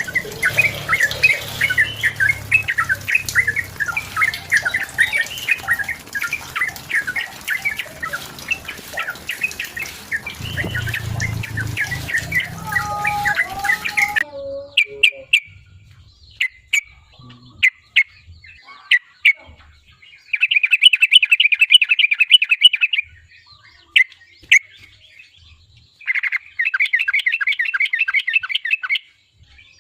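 Yellow-vented bulbul (trucukan) singing: a fast run of repeated bubbly phrases over background noise. About halfway through, the sound cuts to a cleaner recording with scattered short calls and two rapid chattering bursts of about three seconds each.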